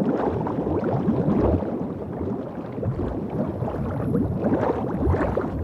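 Water bubbling and gurgling steadily, a dense stream of small bubbling blips.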